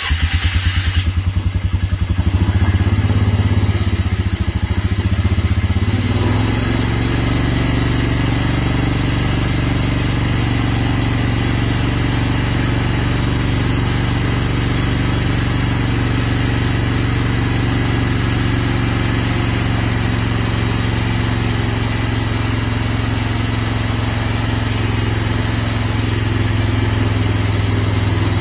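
A vehicle engine cold-starting in very cold weather. It catches suddenly, runs unevenly for about six seconds, then settles into a steady idle.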